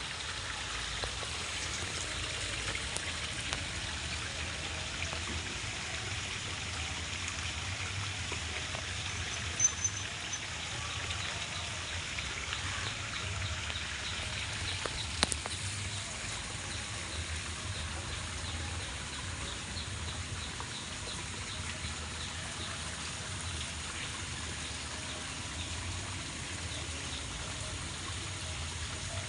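Steady rain falling, an even hiss of many drops, with two sharp knocks about ten and fifteen seconds in.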